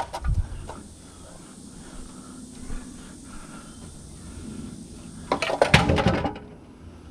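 Old hubcaps thrown onto a load of scrap metal: a thump at the start, then about five seconds in a loud metallic clatter with some ringing, lasting about a second.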